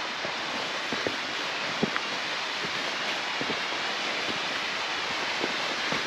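Steady rush of a mountain stream and waterfall, with a few scattered light knocks.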